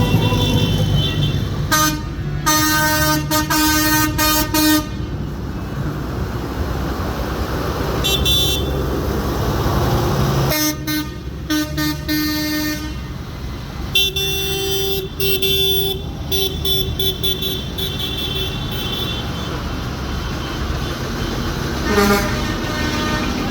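Tractor engines running with a steady low rumble, while vehicle horns toot several times: a few seconds in, twice more around the middle, and once briefly near the end.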